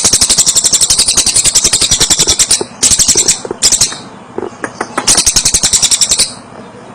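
A tengek cililin songbird singing rapid, dry, high-pitched chattering trills: a long run of fast ticks, two short bursts, then another long run about five seconds in.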